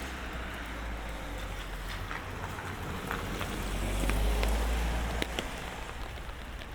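A car passing on a wet street, its low rumble swelling to its loudest about four seconds in and then easing off, over light rain falling with scattered drops ticking.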